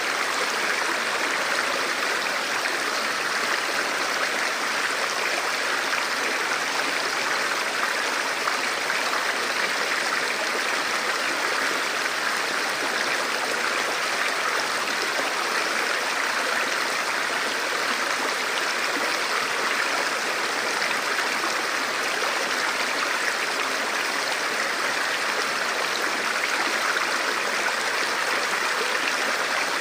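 Forest river or stream flowing over rocks, a steady rushing and babbling of water.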